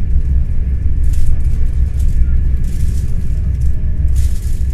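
NS ICNG electric intercity train in motion, heard from inside the carriage: a steady deep rumble with a faint steady hum above it, and short bursts of hiss now and then.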